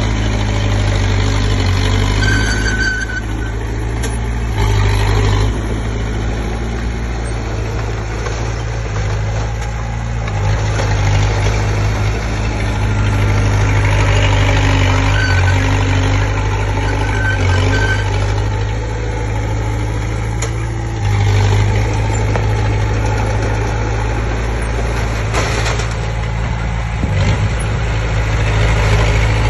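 Komatsu D20P bulldozer's diesel engine running under work, its note rising and easing several times as it pushes soil.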